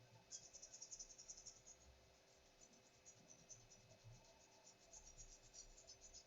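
Faint, rapid scratchy scrubbing on a laptop motherboard as the chip and board are cleaned with alcohol, in two spells with a short pause about two seconds in.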